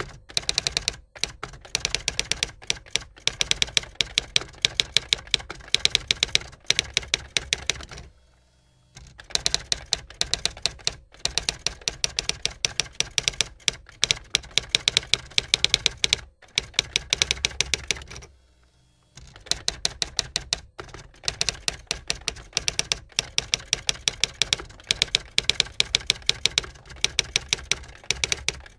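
Typewriter keys clacking in rapid runs of keystrokes, pausing briefly about eight seconds in and again at about eighteen seconds.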